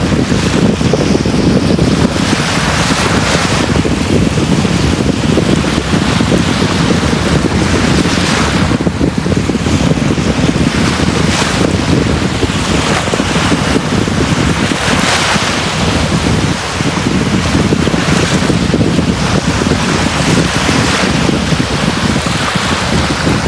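Sea waves breaking and washing on a beach: a continuous rush, with a surge every three to four seconds.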